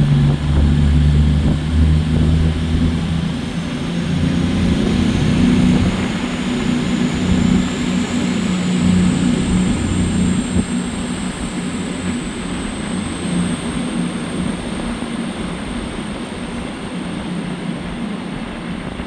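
CrossCountry Class 221 Super Voyager diesel-electric units pulling away: the diesel engines run under power, loudest in the first few seconds, while a high whine rises in pitch. The sound slowly fades as the train leaves.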